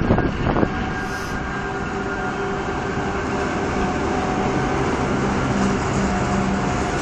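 Railway freight wagons rolling past with a steady rumble and a low hum, with two sharp clanks in the first second.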